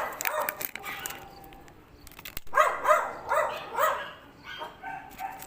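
A dog barking: a quick run of about four barks a little over two seconds in, with a fainter whine near the end.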